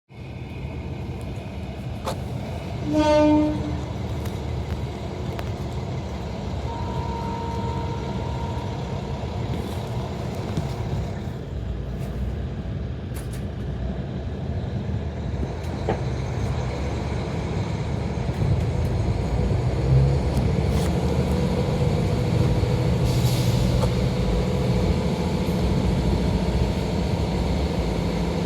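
KiHa 40 diesel railcar running, with a short horn blast about three seconds in; the engine noise builds up in the second half as the railcar gets under way.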